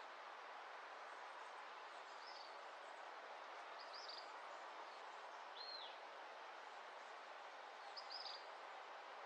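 Quiet outdoor dawn ambience: a steady soft hiss with four short, high bird chirps, roughly one every two seconds.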